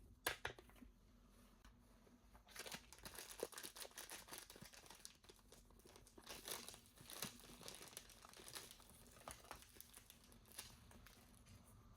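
Faint crinkling and tearing of toy packaging being opened by hand, with scattered small clicks and taps. It gets busier about two and a half seconds in.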